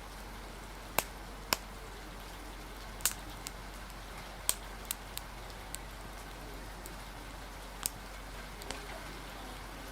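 Steady rain hiss with a wood fire crackling over it: about eight sharp, irregular pops scattered through.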